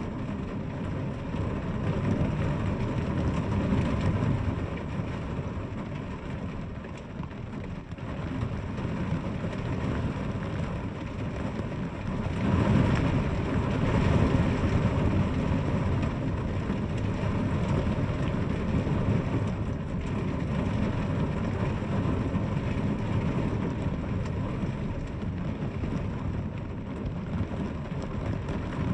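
Steady rain, with a strong low undertone, swelling louder for a few seconds about twelve seconds in.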